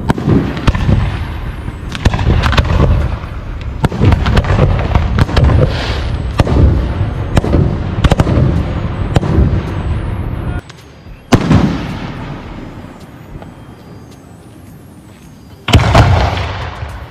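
Fireworks show: aerial shells bursting in quick succession, a dense run of booms and sharp bangs. About ten seconds in, the barrage stops abruptly. A single loud bang follows and rolls away slowly, then another loud burst comes near the end.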